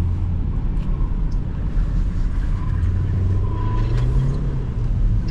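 Porsche Macan driving, with a steady low engine drone over road noise. The engine note climbs a little in pitch partway through as the car pulls harder.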